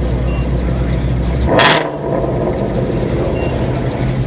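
Car engine idling with a steady low drone, broken about one and a half seconds in by a short, loud rush of noise.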